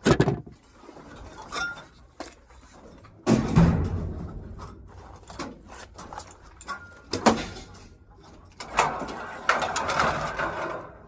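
Scrap items being handled and dropped while a truck is unloaded: a few loud knocks and bangs with rattling clatter after them, busiest near the end.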